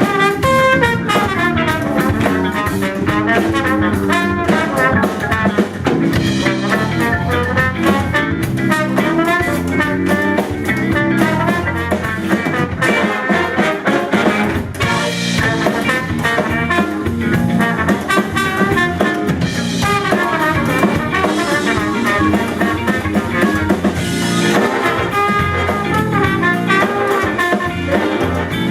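Sixteen-piece band with brass section, drum kit and guitar playing an up-tempo funk and soul instrumental.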